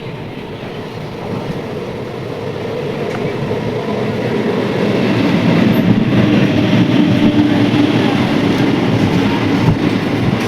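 Train running past on the line, its rumble growing louder over the first five seconds and then holding steady, with a few wheel clacks over rail joints near the end.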